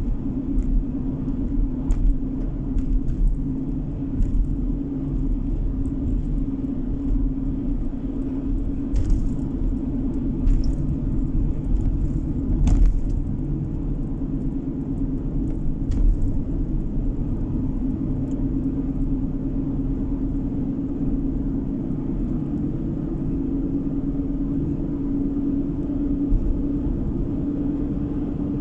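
Steady low drone of a car's engine and tyres on the road, heard from inside the moving car. A few brief knocks or clicks stand out, the clearest about halfway through.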